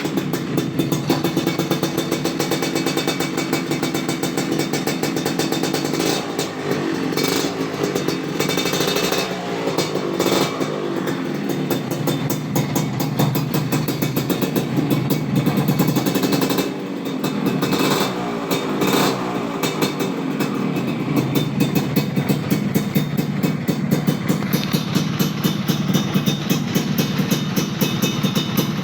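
Motorcycle with a BRAT aftermarket exhaust, two years in use, running just after starting. The throttle is blipped a few times, with the revs rising and falling around a quarter of the way in and again past halfway, and the engine settles into a steady, fast-pulsing idle near the end.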